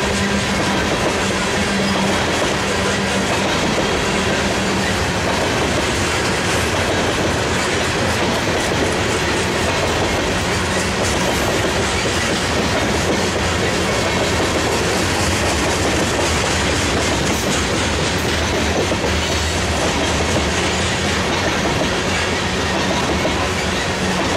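Loaded coal hopper cars of a freight train rolling past, a steady loud noise of steel wheels on rail. A faint hum comes and goes in the background.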